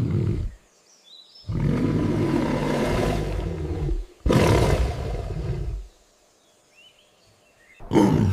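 Deep, rough calls of a large animal: two long calls of about two and a half and one and a half seconds, with a short clipped call at the start and another starting near the end.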